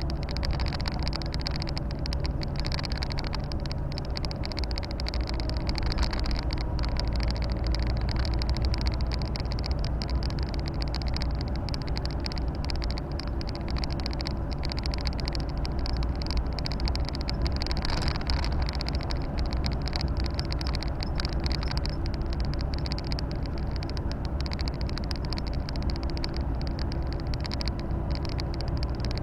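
Volvo FH 460 truck's six-cylinder diesel engine running steadily on the road, with constant tyre and road noise, heard from inside the cab. The engine note shifts slightly about a second and a half in and again near the end.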